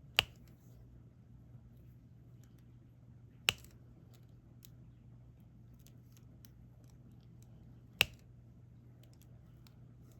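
Diamond painting pen and resin drills clicking: three sharp clicks about four seconds apart, with faint small ticks between them, over a low steady hum.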